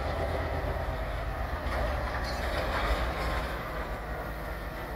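Two EMD GP15-1 diesel locomotives moving a freight train: a steady low rumble of the engines with the cars rolling along the rails.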